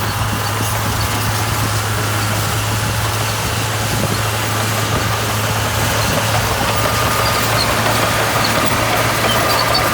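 Diesel engine of heavy road-building equipment running steadily, with a constant low hum.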